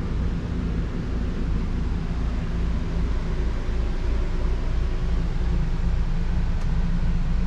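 Portable generator running at a steady, even hum.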